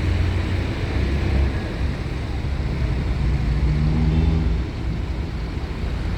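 Low, steady rumble of heavy vehicle engines running, with one engine note standing out for a second or so about three to four seconds in.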